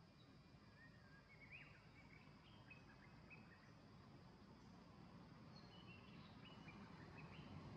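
Very faint outdoor ambience, with a bird calling in short high chirps in two brief runs, the second near the end.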